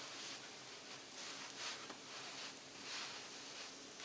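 Faint sizzling and light crackling of butter-sprayed po-boy bread toasting in a hot pan.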